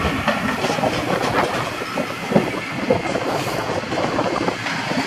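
Passenger train of double-deck coaches rolling past along the platform track, its wheels rumbling and clicking irregularly over rail joints and points.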